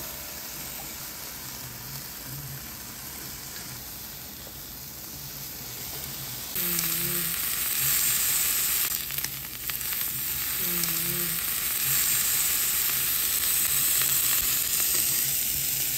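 Food frying in a pan with a steady sizzle, which gets noticeably louder about six and a half seconds in.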